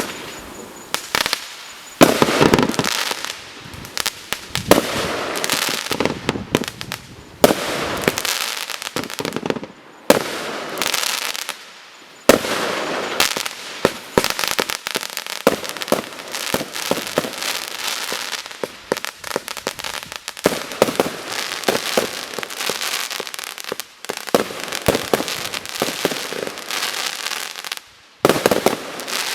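Celtic Fireworks 'Final Curtain' garden firework firing: a rapid run of shots, bangs and crackles, in volleys broken by brief pauses.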